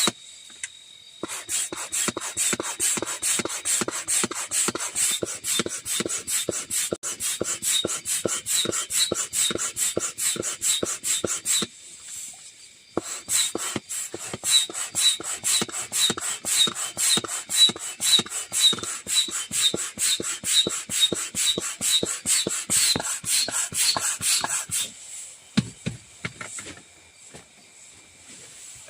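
Rhythmic rasping strokes, several a second, in long runs broken by a few short pauses.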